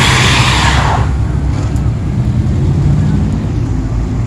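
Tyres squealing in a burnout, fading out about a second in, followed by the low, steady rumble of a vehicle engine.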